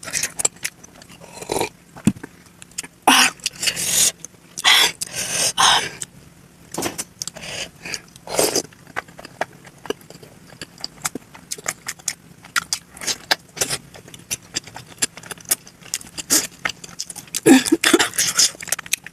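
Close-miked eating of momo dumplings sped up to double speed: rapid wet chewing clicks and lip smacks, with several louder, longer wet sounds from bites or slurps.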